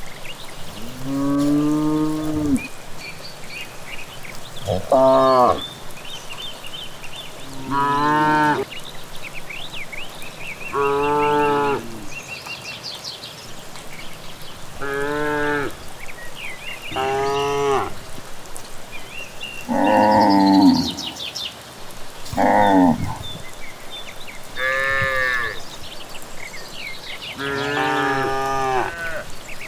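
Cattle mooing in turn, about ten drawn-out moos of roughly a second each, spaced every few seconds, some sliding up or down in pitch.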